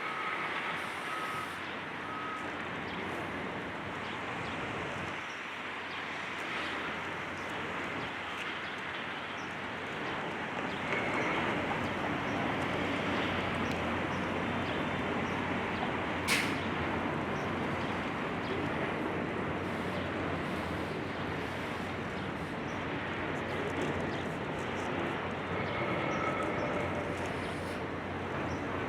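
Heavy demolition machinery running with a steady mechanical rumble that grows louder about eleven seconds in, with a few short beeps at the start and one sharp knock near the middle.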